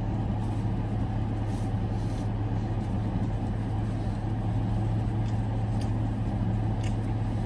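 Dodge Challenger's engine idling steadily, heard from inside the closed cabin as a low, even hum. A few faint paper rustles from a sandwich wrapper sound over it.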